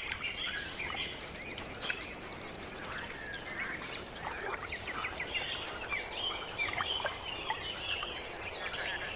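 Wetland birds calling: a fast high-pitched trill of evenly repeated notes through the first half, with many short chirps and calls from several birds throughout.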